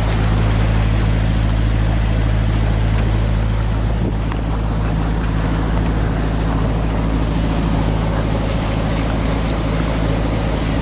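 Small motorboat's engine running at a steady speed, with water and wind noise.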